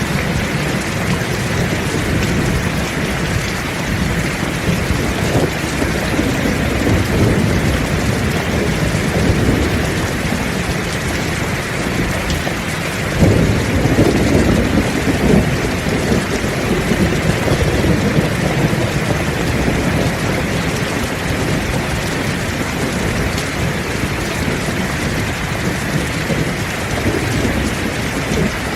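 Heavy rain falling steadily, with rolling thunder rumbling low beneath it; the loudest roll swells about halfway through and lasts a few seconds.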